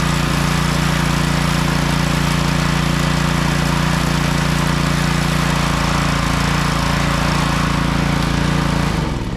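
Gas pressure washer's small engine running steadily at a constant speed, then shut off about nine seconds in, its pitch falling as it spins down.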